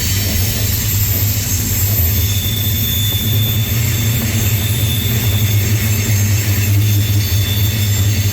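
Freight train rolling along, a steady loud low rumble with faint high ringing tones above it.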